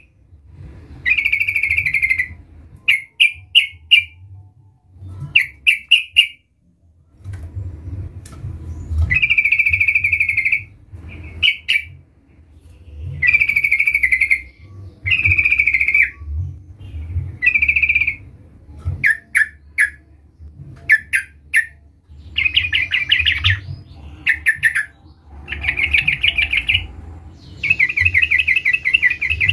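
Sooty-headed bulbul singing a loud, repeated song. Short clusters of three or four quick notes alternate with longer warbling phrases of about a second, with brief pauses between them.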